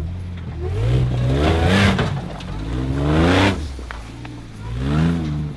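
Off-road Jeep engine revving hard three times, each time climbing in pitch and then dropping back, as it is driven on throttle up a loose rocky climb.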